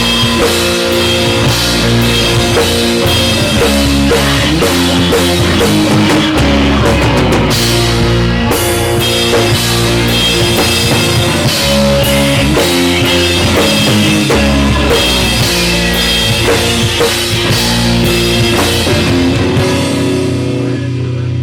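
Rock band playing a song: a drum kit and guitar over sustained bass notes. Near the end the drums drop out, leaving a held low chord ringing.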